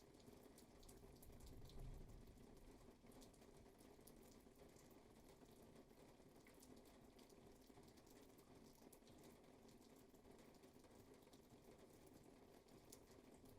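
Faint steady rain, with many small drops ticking over an even hiss and a brief low rumble about two seconds in.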